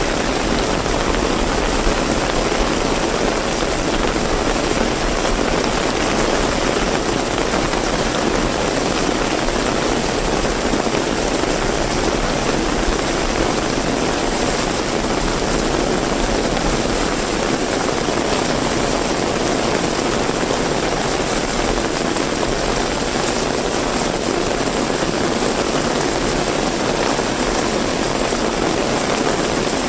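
Heavy rain pouring steadily, a dense, even rush of noise that does not let up.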